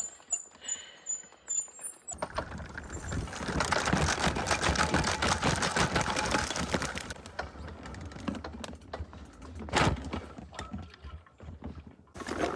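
E-bike rolling over a rough dirt trail: tyres crunching and the bike rattling in a dense run of small clicks. It starts about two seconds in, is loudest in the middle, then eases off, with two sharper knocks near the end.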